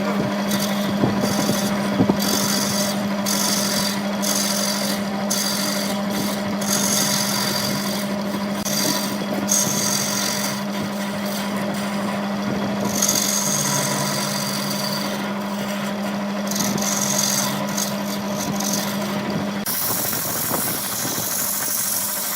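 Wood lathe running with a steady hum while a tool or abrasive works the spinning wood in repeated, irregular scraping strokes. The hum drops out near the end.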